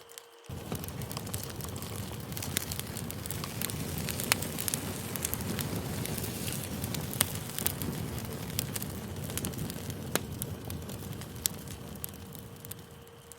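Campfire crackling: a steady low rush of burning with scattered sharp pops. It starts about half a second in and fades out near the end.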